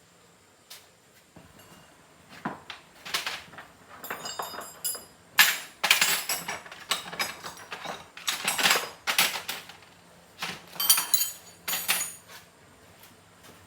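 Metal parts and hand tools clinking, knocking and scraping in an irregular series, some strikes leaving a brief metallic ring.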